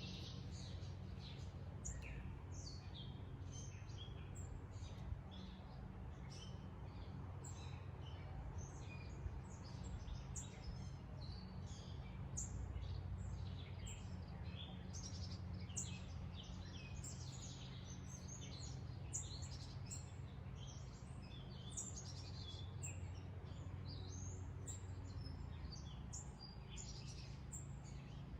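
Wild birds chirping and singing, many short calls overlapping continuously, over a steady low background rumble.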